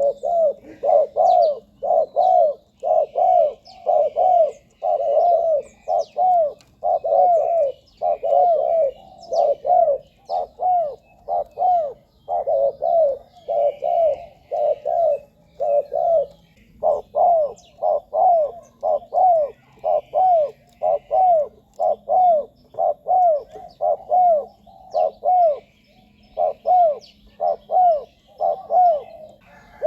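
Spotted dove cooing over and over: a steady run of short rising-and-falling coos, two to three a second, in phrases broken by brief pauses.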